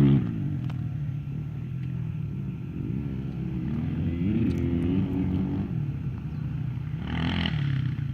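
Motocross dirt bike engine revving at a distance, its pitch rising and falling as the rider works the throttle around the track. A brief rush of noise comes about seven seconds in.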